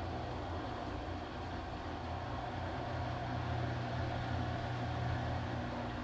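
Washing machine running with a steady low hum and a faint, even higher tone above it.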